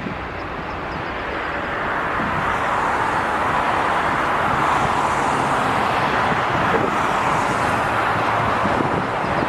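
Jet airliner's engines passing, a rushing noise that builds from about two seconds in and then holds steady and loud.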